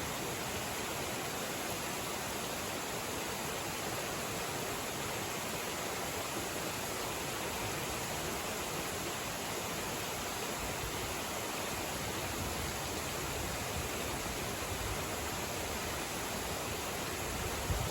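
Heavy rain falling in a thunderstorm, a steady even hiss with no breaks.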